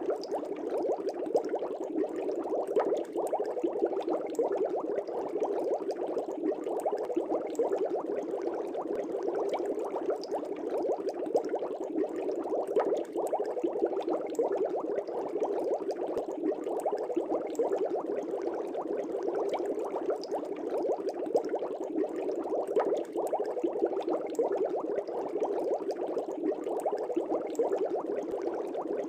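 Aquarium air bubbles rising and breaking at the surface, a steady dense bubbling with many small pops.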